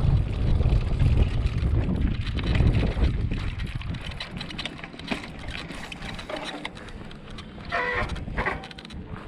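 Wind buffeting the microphone while cycling, strong for the first few seconds and then easing off to a low steady rush. A short pitched sound is heard briefly near the end.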